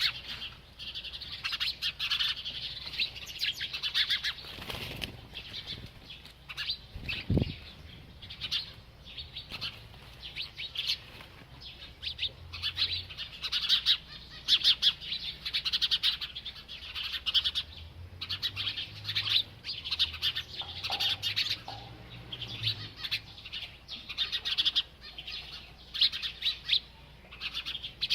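A small bird chirping continuously in rapid, high-pitched chirps, with one short low knock about seven seconds in.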